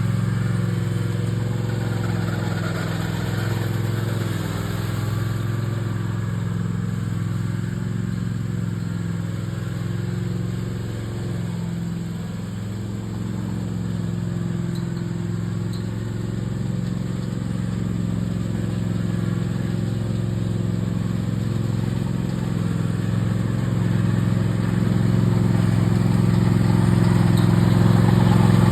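Toro TimeCutter MAX zero-turn mower running steadily, with the noise it makes when its right drive arm is engaged, a sign of trouble on the right-side drive. It grows somewhat louder near the end.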